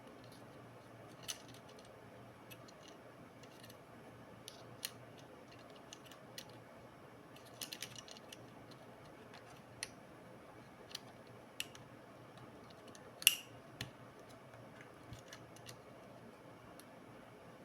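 Scattered small clicks and taps of hard plastic and small metal parts being handled, a dozen or so spread irregularly, with one louder click about thirteen seconds in.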